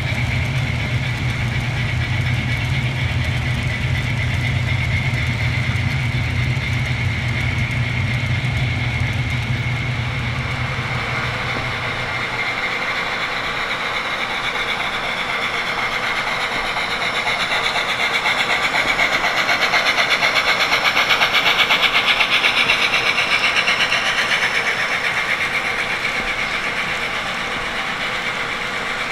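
HO scale model trains running on the layout. A low steady hum for about the first twelve seconds stops, and a fast, even rattle of wheels on track follows, growing louder for a few seconds about two-thirds of the way through.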